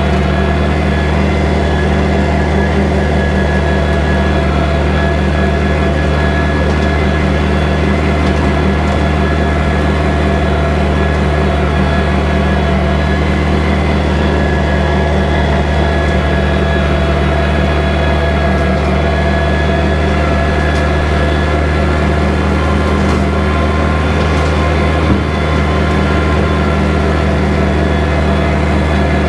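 Kubota tractor's diesel engine running steadily at a constant, high engine speed, with a steady low drone and no change in pitch.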